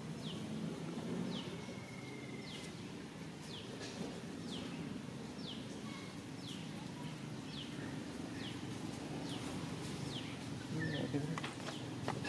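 A bird calling over and over, a short falling chirp repeated about once every second, over a steady low background noise, with a few soft knocks near the end.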